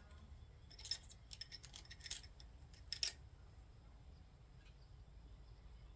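Light metallic clicks and clinks of small hardware and hand tools being handled, a quick cluster in the first three seconds with the sharpest ones about one, two and three seconds in.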